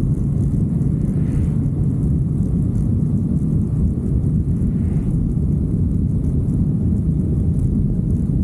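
Steady low rumble of a motorcycle on the move, engine and wind noise blended together at a constant pace.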